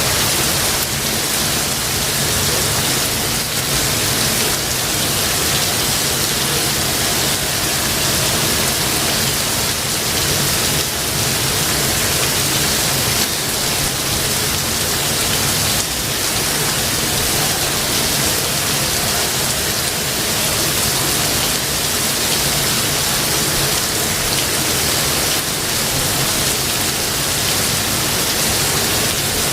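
Steady rain falling, an even hiss of drops with no distinct strikes.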